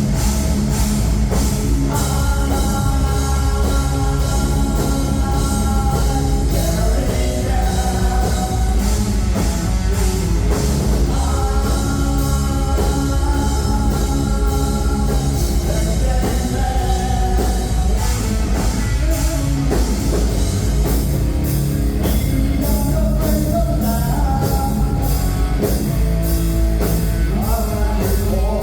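Live rock band playing loud, with distorted guitars, bass, a drum kit and a singer holding long notes.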